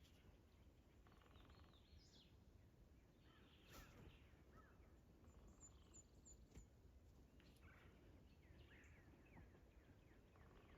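Near silence with faint songbirds chirping and trilling in spring woods.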